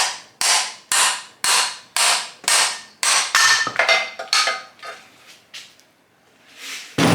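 Steady hammer blows, about two a second, knocking a stuck cylinder barrel loose on an old air-cooled VW engine. The blows give way to a few irregular metallic knocks with some ringing, then a single loud thump near the end.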